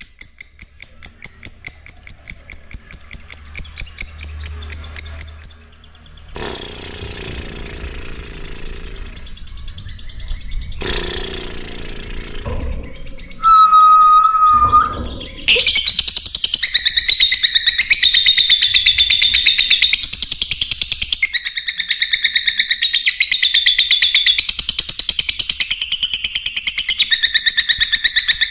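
Lovebird chirping: a loud, rapid, high-pitched trill for the first few seconds, a quieter stretch with one short whistle, then a long run of fast, continuous chattering that wavers up and down in pitch.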